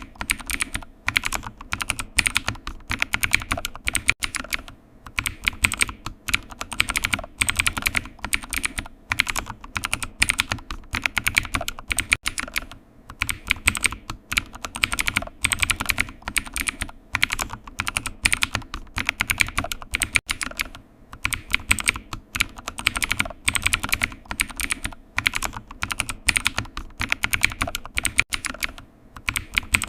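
Computer keyboard being typed on: fast, irregular runs of key clicks broken by short pauses.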